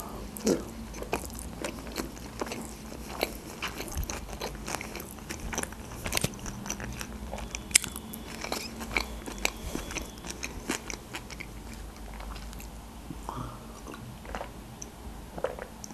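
A person chewing a sushi roll close to the microphone: a steady run of small, irregular wet clicks and smacks of the mouth. Near the end come a few swallows from a glass of juice.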